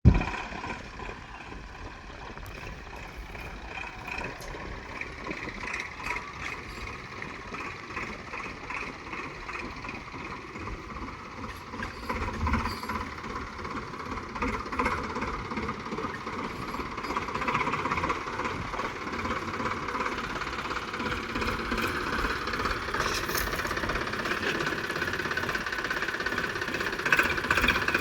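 Tractor diesel engine running with a knocking beat, gradually growing louder.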